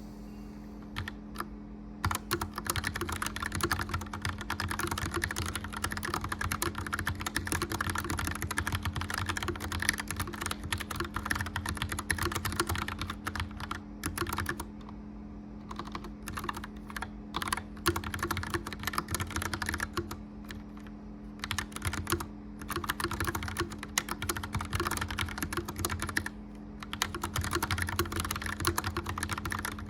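Fast typing on a clicky mechanical keyboard, a dense stream of key clacks starting about two seconds in and broken by a few short pauses, over the steady hum of a gas fireplace's blower fan.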